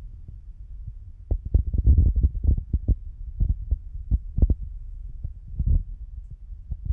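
Irregular series of low knocks and thumps, several a second and loudest in the middle, over a steady low rumble.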